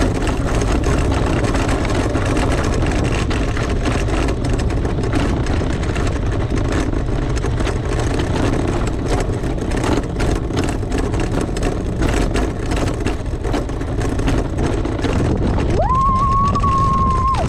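Rosso Motors ATV running steadily, a dense low rumble with many short knocks and rattles. Near the end a high tone rises quickly and holds steady for about a second and a half before cutting off.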